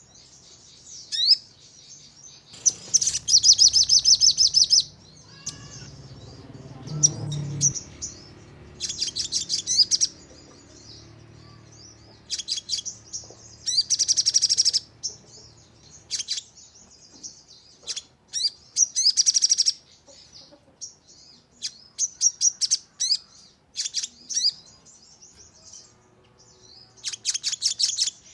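Sogon songbird singing in repeated high-pitched, rapid rattling bursts (the "nembak" style), each lasting one to two seconds, with short chirps in between.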